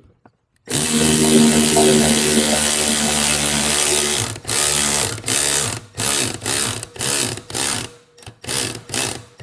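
1/4-inch ratchet driving a valve spring compressor down on an LS cylinder head's double valve springs, enough to compress them. It runs steadily for about three and a half seconds, then goes in short bursts about two a second.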